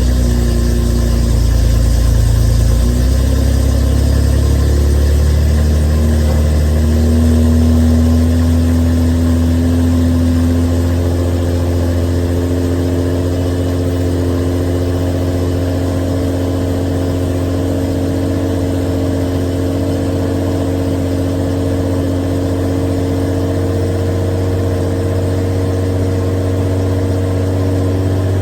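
Datsun Skyline's L20 straight-six, with stainless headers and 42 mm dual mufflers, idling just after a cold start. The exhaust note shifts a little over the first several seconds, then holds steady.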